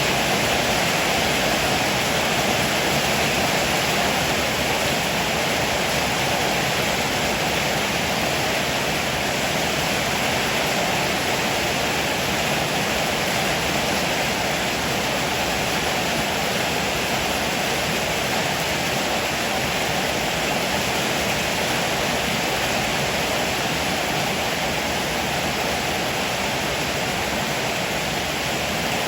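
Heavy rain pouring down, a steady, even rush that does not change.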